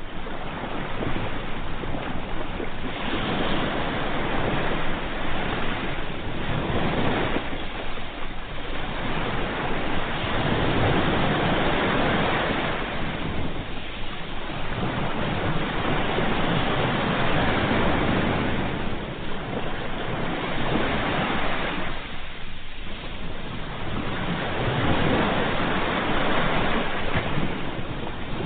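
Ocean waves breaking on the shore in a continuous wash, surging and easing every few seconds.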